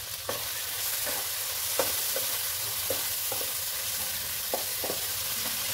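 Spice masala (ground ginger, garlic, onion and tomato paste with freshly added ground spices) frying in oil in a pan: a steady sizzle as it is stirred, with a few light taps of the stirring utensil against the pan.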